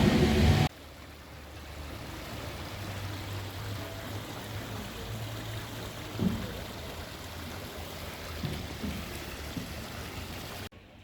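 A loud sound breaks off abruptly less than a second in, giving way to the steady rush of running water from a stream or falling water.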